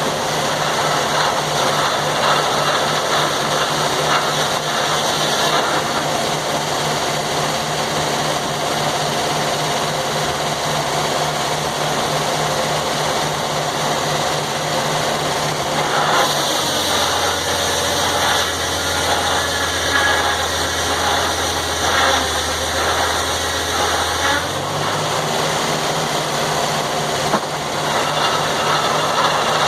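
Sawmill's engine running steadily. About sixteen seconds in its pitch drops to a lower speed, and it rises back up about eight seconds later.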